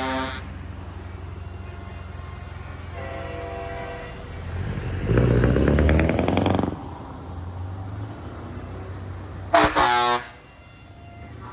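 Heavy trucks' air horns sounding over the steady low rumble of truck engines: a horn blast about three seconds in and a short, loud toot near the end. Between them a truck engine grows louder for about two seconds, then drops back.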